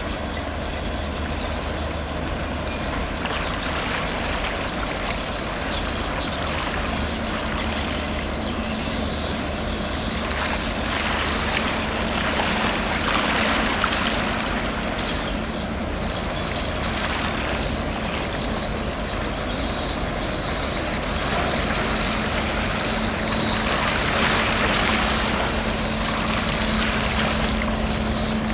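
Steady low drone of a large ship's diesel engine, with a constant hum that comes in several seconds in and two swells of rushing noise.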